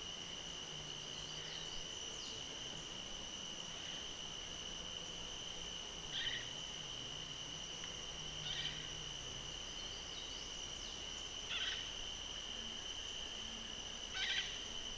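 Evening insect chorus: a steady, unbroken high trill, with a short sharp animal call repeating four times, two to three seconds apart, louder than the trill.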